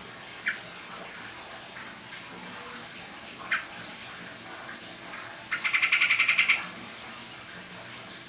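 Pet bird calling: two short chirps, then about six seconds in a loud, rapid chattering trill lasting about a second.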